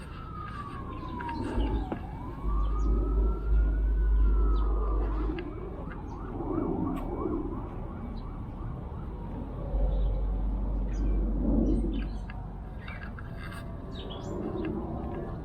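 Emergency-vehicle siren wailing: a slow falling and rising sweep in the first few seconds before it fades. Two loud low rumbles come and go, and short bird chirps sound in the second half.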